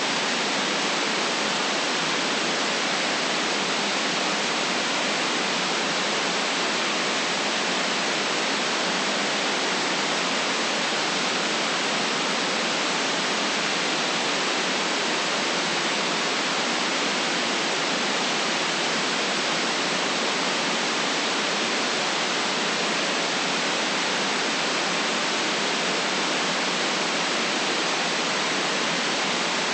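Steady white noise: an even, unchanging hiss with no deep rumble and no separate sounds in it.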